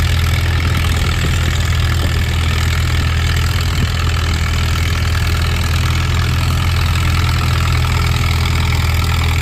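Farmall M tractor's engine running steadily under load while pulling the sled down the track, a loud, even drone with no change in pitch.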